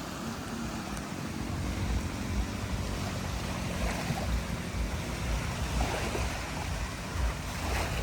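Surf washing onto a sandy beach in slow swells, with wind gusting and rumbling on the microphone.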